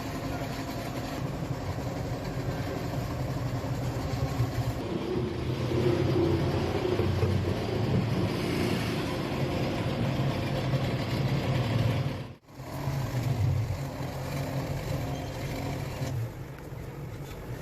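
A steady motor or engine hum, cut off for an instant about twelve seconds in.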